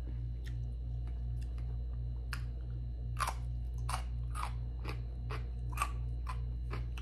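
Crisp chewing of a bitten slice of yellow pickled radish. A few faint crunches come first, then sharper crunches about two a second from about three seconds in.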